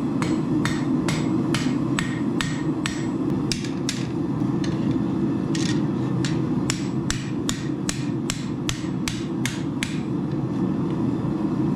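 Hand hammer striking steel on an anvil in a steady rhythm of about two to three blows a second, each blow ringing, with a short pause partway through. A steady low rushing noise runs underneath.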